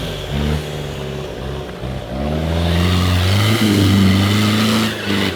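Off-road 4x4's engine revving, its pitch climbing about two seconds in and holding high before easing off near the end.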